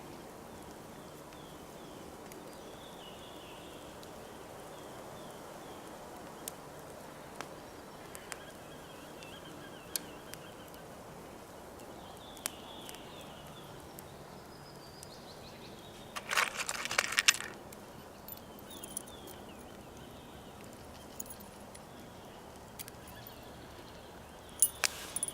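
Quiet outdoor ambience with faint birdsong, a few scattered sharp clicks, and a brief burst of clattering about sixteen seconds in, with another short clatter near the end.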